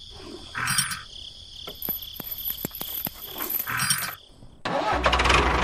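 Light metallic clicks of a small chain being handled and hooked between a model tractor and its trolley, over a steady high cricket-like chirring. Near the end the model tractor's small motor starts and runs with a steady, louder hum.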